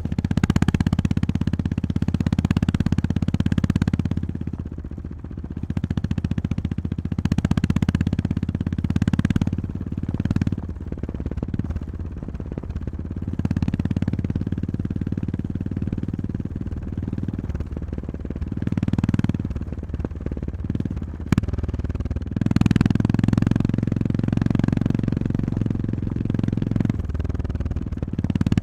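Honda GB350S single-cylinder motorcycle engine running under riding load, its note swelling and easing again and again as the throttle is opened and closed. A single sharp knock sounds about two-thirds of the way through.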